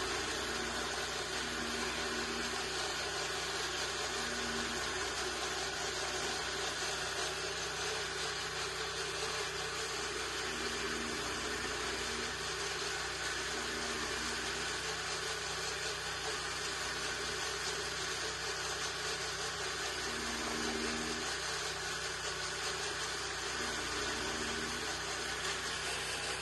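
Chaff cutter running steadily with no fodder going through: an even mechanical noise, with a faint tone that comes and goes every second or two.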